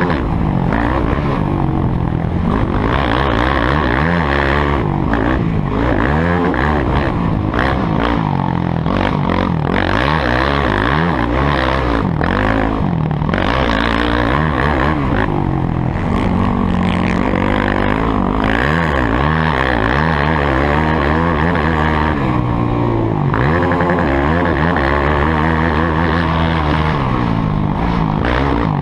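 Motocross bike engines revving, their pitch rising and falling over and over as the bikes accelerate and back off.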